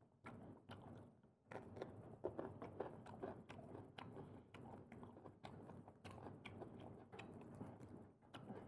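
A person chewing and biting seafood close to the microphone, with soft mouth sounds and many small clicks. It grows louder about a second and a half in.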